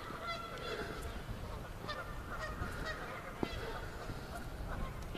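Geese honking, many short calls overlapping.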